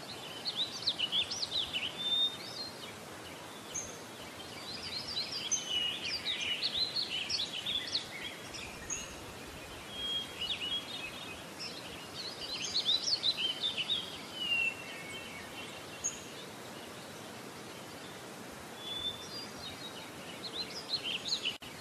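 Small birds chirping in several bursts of quick, high calls over a steady background hiss.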